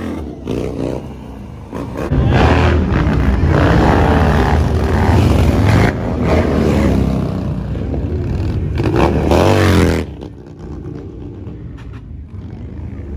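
Motorcycle engine revving loudly, its pitch rising and falling, then dropping off suddenly about ten seconds in to a quieter running sound.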